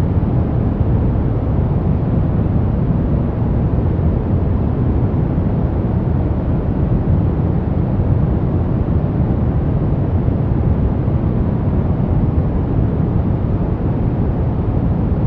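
Steady brown noise: an even, deep hiss that is strongest in the low end and fades toward the top, with no changes or breaks.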